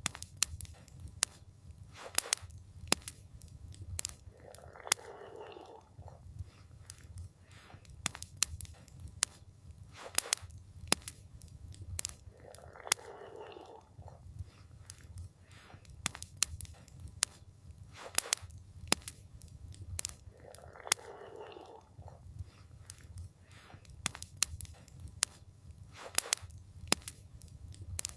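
Campfire crackling, with sharp irregular pops over a steady low rumble. A short soft noise recurs about every eight seconds.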